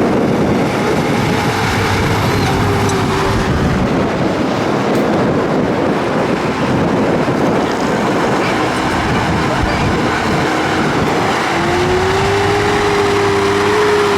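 Tractor engine running hard in a sprint race, with its pitch climbing and holding near the end as it revs up.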